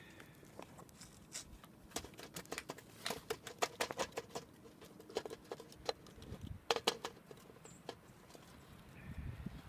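A rapid, irregular run of small clicks and taps, thickest in the middle stretch and thinning out toward the end.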